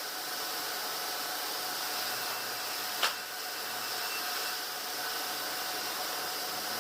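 Steady running noise of sawmill machinery with a faint steady whine, and one sharp click about three seconds in.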